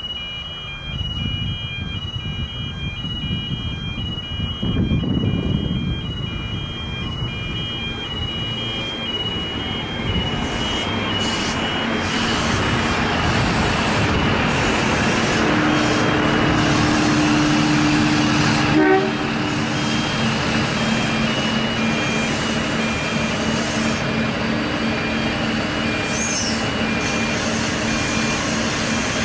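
Diesel multiple-unit passenger train running through the station. The wheel-and-rail rumble and engine drone grow louder from about ten seconds in and then hold steady as the carriages pass, with a sharp click partway through.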